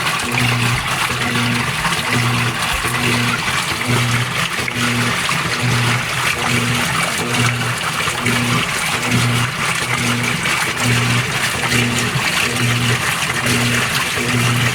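Washer of a GE Spacemaker GUD24ESSM1WW laundry center agitating in the rinse. The motor hum pulses on and off about once a second with each agitator stroke, over water sloshing in the tub.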